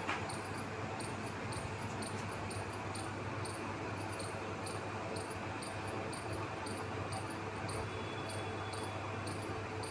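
Cricket chirping steadily, short high chirps about twice a second, over a low steady hum.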